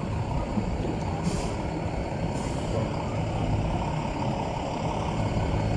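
Steady low rumble of a vehicle's engine and road noise as it drives, with brief hissing swells twice early on.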